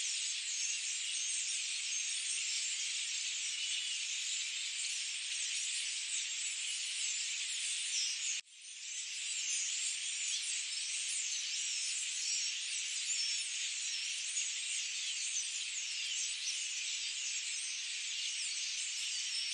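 A dense, high-pitched chorus of many birds chirping and twittering at once. About eight and a half seconds in, the sound cuts out sharply for a moment and fades back up.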